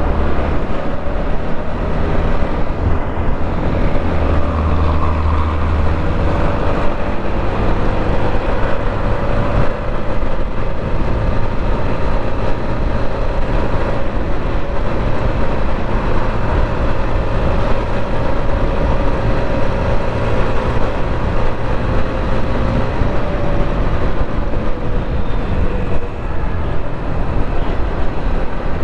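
TVS Apache RTR 160 4V's single-cylinder engine running during a ride through city traffic, its note bending slowly up and down, under a steady rush of wind and road noise.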